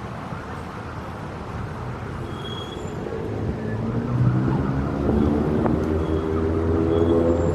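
City street traffic noise, with a motor vehicle's engine growing louder about halfway through and running close by as a steady low hum.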